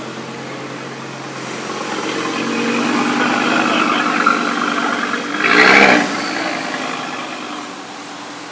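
Audi RS3's turbocharged five-cylinder engine rolling slowly past, growing louder over the first few seconds, with a brief loud burst about five and a half seconds in before it fades away.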